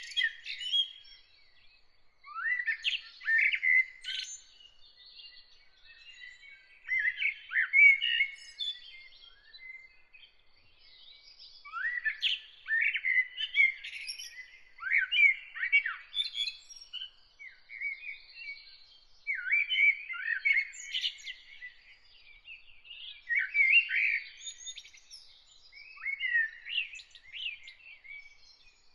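Songbirds singing in short warbled, chirping phrases of a second or two, separated by brief pauses, with a faint steady high tone underneath.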